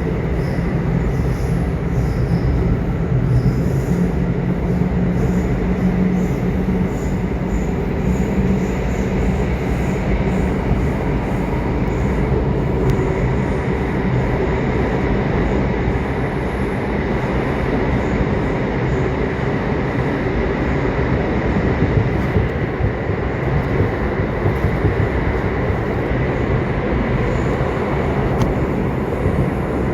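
Subway train running: a steady rumble and rush of the wheels on the track and the moving car, with a faint high whine held throughout.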